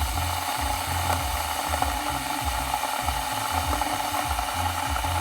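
Electric kettle heating water, an uneven low rumble with hiss and faint crackling as bubbles form and collapse on the element before the boil.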